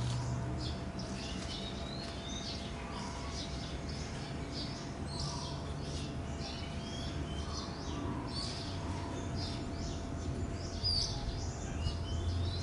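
Small birds chirping repeatedly and irregularly, over a steady low hum.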